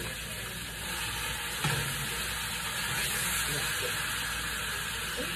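Onions and seasoning sizzling steadily in hot oil in a frying pan, with a single sharp knock about a second and a half in.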